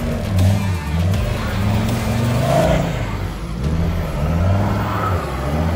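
A 4WD ute's engine revving up and down in repeated surges under load as it climbs out of a rutted dirt ditch.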